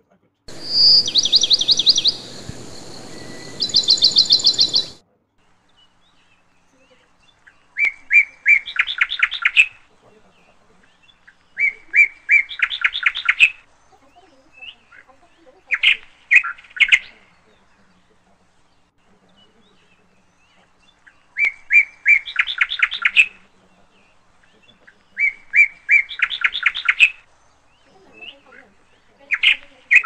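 A bird calling in repeated phrases, each about two seconds long: a quick run of notes, then a burst of rapid chirps, coming back every three to four seconds. Near the start, a few seconds of high pulsed chirping over a hiss cut in and out abruptly.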